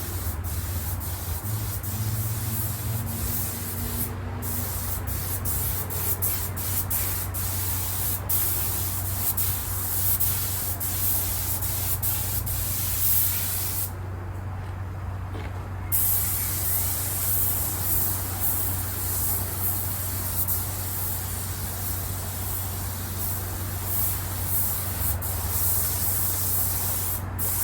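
Spray gun hissing as it lays on a thin clear satin leather sealer. It runs in short pulses, with quick releases of the trigger, in the first several seconds, then more steadily with a pause of about two seconds halfway through. A steady low hum runs underneath.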